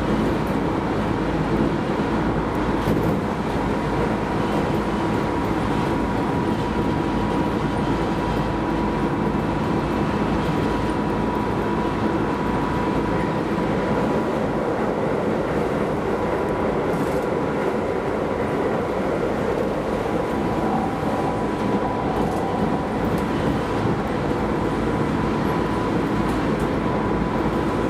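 Keisei Line rapid train running at speed, heard from inside the car: a steady rumble of wheels on rail with a thin, steady high tone over it.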